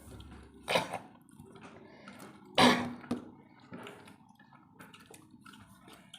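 Eating sounds at a meal of rice and fish curry: soft scattered mouth and hand noises, with two louder short sounds a little under a second in and near the middle.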